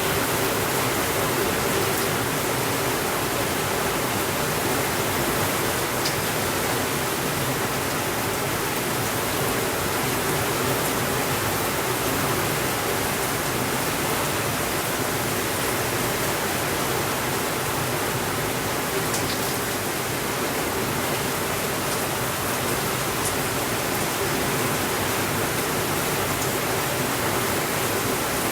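Steady, even rainfall hiss with a few faint ticks scattered through it.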